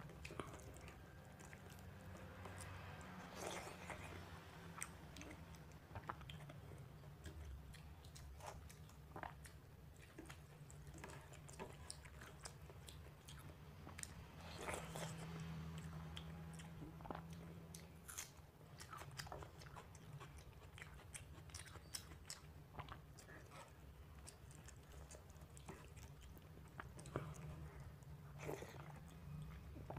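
Faint close-miked eating sounds: chewing of panta bhat, watery fermented rice eaten by hand, with scattered wet mouth clicks and occasional crunchy bites.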